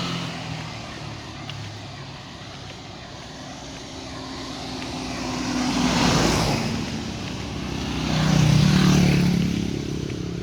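Road vehicles passing close by, one after another. The first swells up and fades about six seconds in. A louder one with a low engine hum passes around eight to nine seconds.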